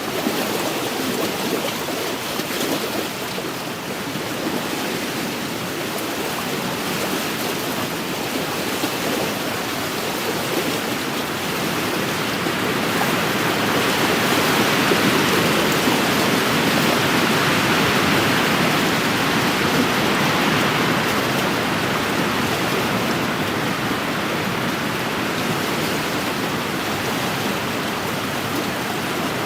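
Wind-driven waves washing against a lakeshore, a steady rush of water and wind that swells louder for several seconds mid-way before settling back.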